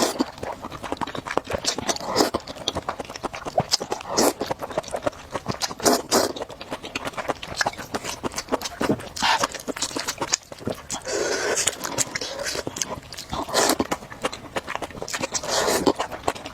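Close-miked mukbang eating of spicy food: wet chewing and mouth smacks, a run of irregular small clicks with a few longer noisy swells.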